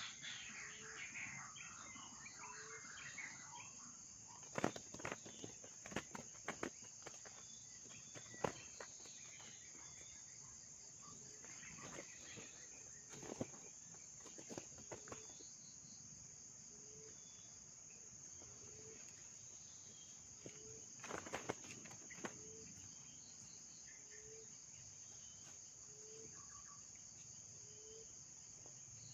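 Steady, high-pitched drone of crickets or other night insects, with a faint low note repeating about once a second and scattered rustles and clicks.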